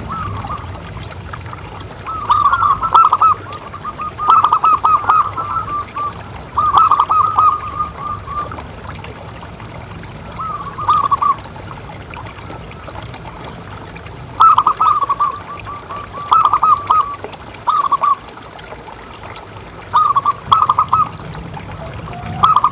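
Zebra dove (perkutut) cooing in short phrases of rapid, stuttering coos, about ten phrases with pauses of a second or more between them. A steady trickle of water and a low hum run underneath.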